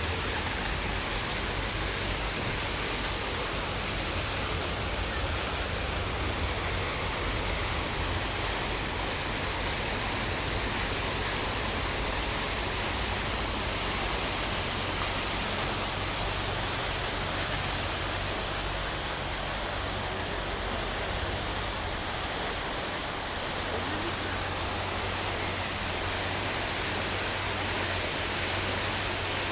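Fountain water splashing and rushing steadily, over a low hum of city traffic.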